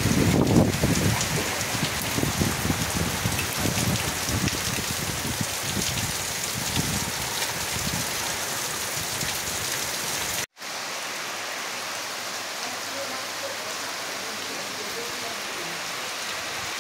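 Heavy rain pouring down, a steady dense hiss, with gusty low rumbling in the first several seconds. There is a momentary drop-out about ten seconds in, after which the rain continues evenly.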